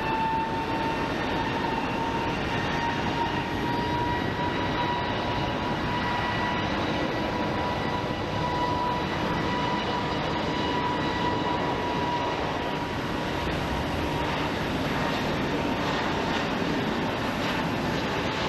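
Jet airliner engines at takeoff power: a steady high whine, having just finished rising in pitch, over a broad, continuous roar.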